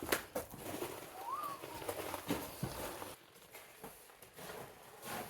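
Scattered footsteps and crunching knocks on loose rock and debris, with one short squeak that rises and falls in pitch about a second in; the knocks die down after about three seconds.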